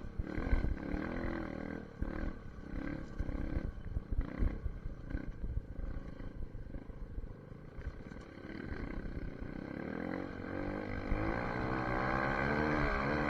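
SSR 150 dirt bike engine running while being ridden, its revs rising and falling unevenly with a low, irregular rumble. From about ten seconds in it gets louder and steadier, its pitch wavering up and down.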